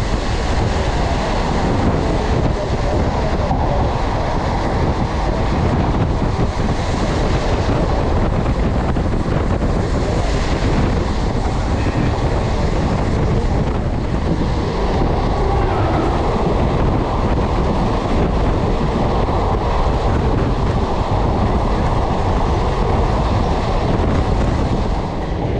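A passenger train's ICF coach running at speed: steady, loud wheel-and-rail running noise, with wind on the microphone.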